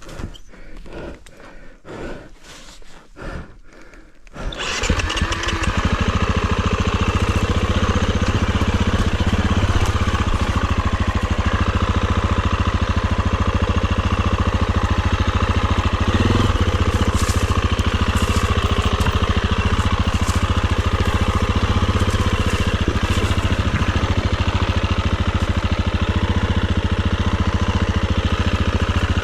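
Enduro dirt bike engine starting after a few seconds of quieter knocking, then running steadily.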